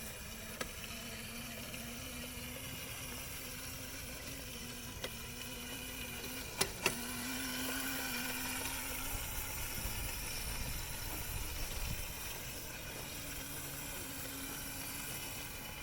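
Small electric dirt bike's motor running with a steady whine that wavers slightly in pitch, over a low rumble, with a few short clicks, two of them close together partway through.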